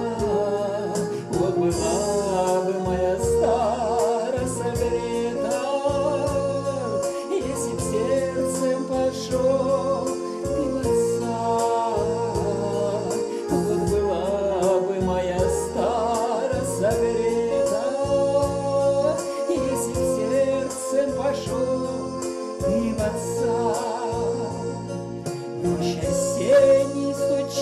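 Song played on a bayan (button accordion), with sustained chords over a bass that comes in on a regular beat, and a singing voice that bends and wavers over it.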